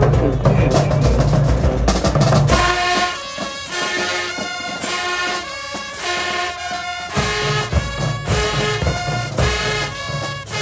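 High school marching band playing: heavy drums and low brass at first, then about two and a half seconds in the horns come in with held chords, and the drums return partway through.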